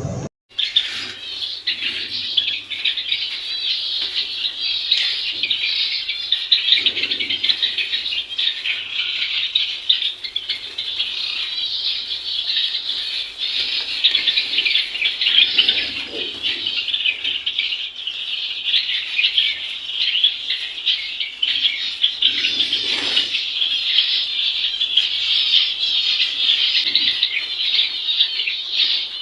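A flock of small caged birds chirping steadily, a continuous high chatter of many quick calls without a break.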